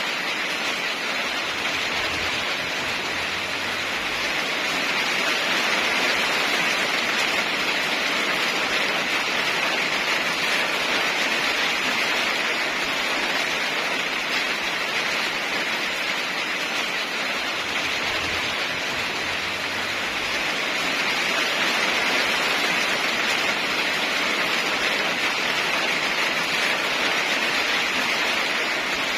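Heavy rain falling steadily: an even, dense hiss with no separate drops standing out, swelling a little twice.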